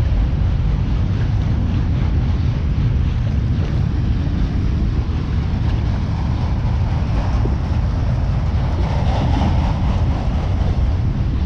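CSX freight train of enclosed autorack cars rolling past, a steady low rumble that does not let up.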